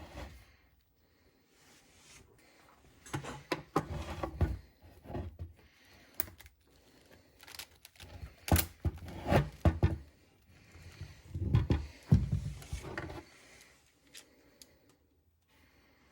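Handling noises while a length of PETG 3D printer filament is pulled off the spool and its diameter is measured: scattered clicks, knocks and short rubbing sounds, dying away near the end.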